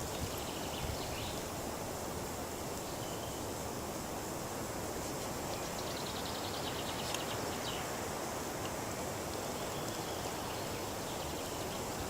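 Steady rushing outdoor noise with a few faint high chirps, and a quick rattling trill about six seconds in.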